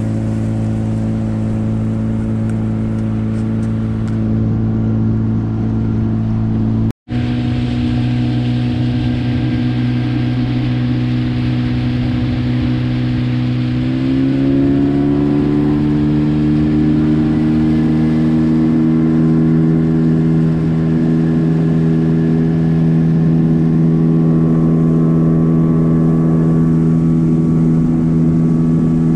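Gladiator 9.9 hp outboard motor running steadily under way, then throttled up about halfway through: the engine note rises and holds at a higher, steady pitch. The sound drops out for an instant about seven seconds in.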